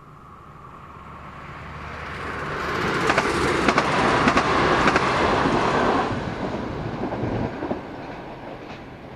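Trenitalia ATR 220 diesel multiple unit passing at speed: its running noise builds, wheels click sharply over rail joints as it goes by, then it fades into the distance.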